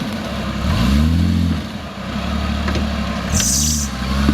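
Off-road 4x4's engine running and revving up then dropping back, twice, with a short hiss near the end.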